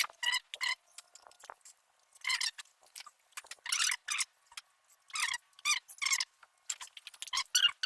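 Nylon zip ties being pulled tight through their locks in short zipping strokes, about a dozen in irregular groups, securing cables on a mini bike.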